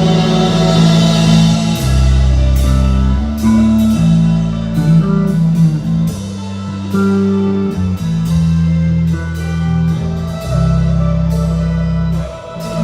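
Live rock band playing: distorted electric guitar and bass hold long chords that change every second or so, with drum kit hits and cymbal crashes over them, loud through a handheld recording.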